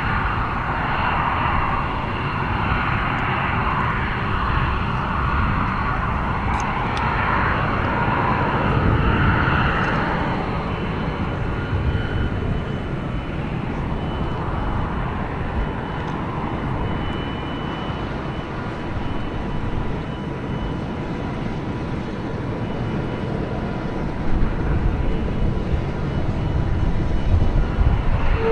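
Aircraft engine noise from an airplane in flight, a steady noisy drone with a faint thin whine through it, swelling slightly about nine seconds in and rising again near the end.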